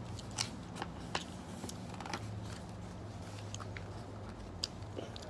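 Pages of a paper picture book being turned and handled: scattered light rustles and clicks over a low steady hum.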